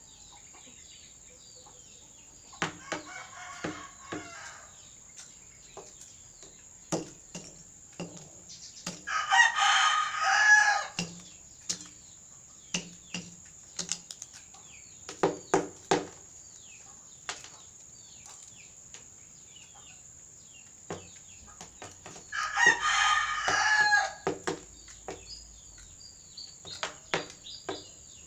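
Rooster crowing twice, each crow about a second and a half long, with a softer call near the start. Between the calls come many sharp clicks and crunches from the rooster pecking at nachos.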